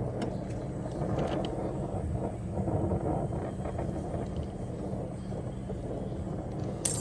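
Brazing torch flame burning steadily with a low rushing noise while a leaking refrigerant line joint is re-brazed. A brief sharp click comes near the end.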